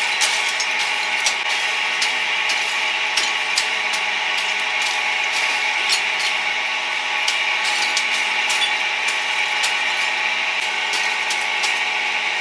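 Steady mechanical hum with a cluster of fixed tones, overlaid by irregular sharp clicks and clatter, a few per second.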